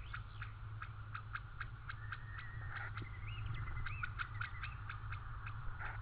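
A bird whistling: a string of short fluting notes that glide up and down, over a steady low hum and a regular faint ticking.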